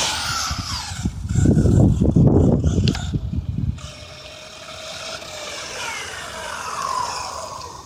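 Electric RC stadium truck on a 3S LiPo running past on the street, its motor whine gliding down in pitch as it goes by, heard most clearly in the second half. About a second in there is a couple of seconds of low rumbling noise.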